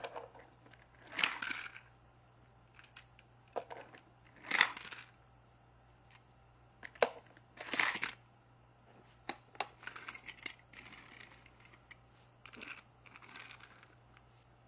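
Toy cars and plastic toy truck parts being handled and set down, with scattered clicks and clatters, the largest a few seconds apart.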